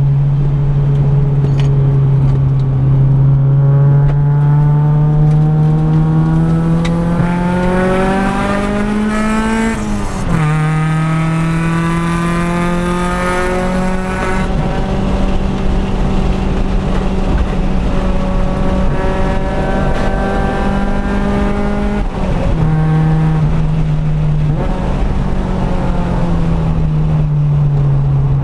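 Honda B20 VTEC-swapped four-cylinder engine heard from inside the car under hard acceleration, its revs climbing steadily. About ten seconds in there is a quick upshift with a sudden drop in pitch, after which it climbs again and holds high. Near the end the revs fall away as the car slows for a corner.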